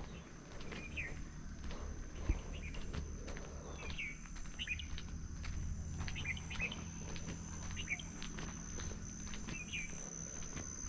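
Small birds chirping in short calls every second or so, over a steady high-pitched whine and a low rumble, with a single sharp click about two seconds in.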